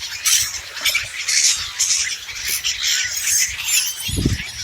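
Small birds chirping and squawking in quick, repeated high calls while feeding, with a short low rumble near the end.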